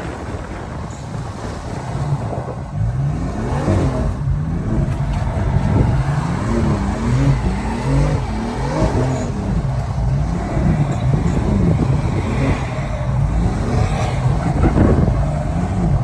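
BMW M3's S55 twin-turbo inline-six revving hard, its pitch rising and falling over and over about once a second from a few seconds in, as the car does donuts.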